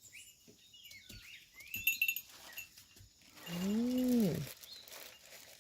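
A sheep gives one long bleat about three and a half seconds in, rising then falling in pitch. Before it, faint bird chirps and light clinks.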